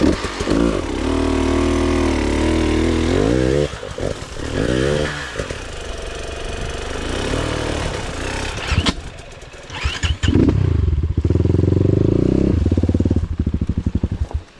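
KTM 300 two-stroke enduro motorcycle engine revving. It is held at high revs for a few seconds, drops and rises, runs lower for a while, then revs up and holds high again before cutting off at the end.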